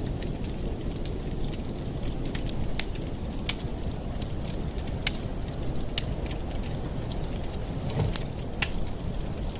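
Campfire burning: wood crackling and popping in sharp, irregular snaps over a steady low rumble of flame, with a louder pop about eight seconds in.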